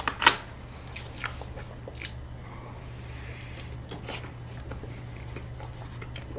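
Close-miked eating sounds: soft chewing of muffin with whipped cream, with a few sharp mouth clicks and smacks, the loudest two right at the start.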